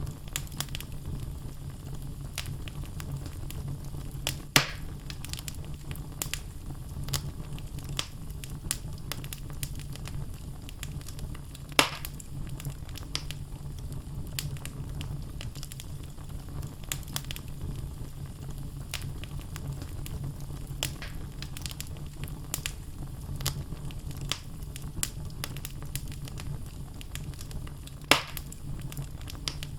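Wood logs burning in a fireplace: a steady low rumble of flame under constant small crackles, with three louder sharp pops from the burning wood spread through.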